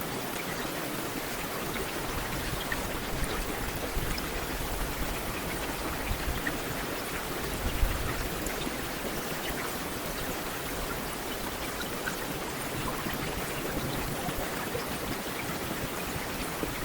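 Heavy rain falling steadily on a street, an even hiss dotted with individual drop ticks, with a brief low thump about eight seconds in.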